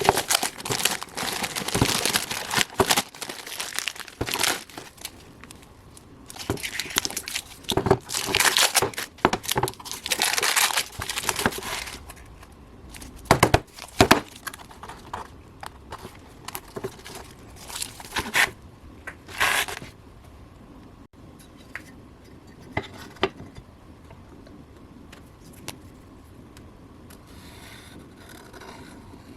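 Crinkling, rustling and tearing of sheet material being handled, in irregular bursts for about twenty seconds, then only a few light taps.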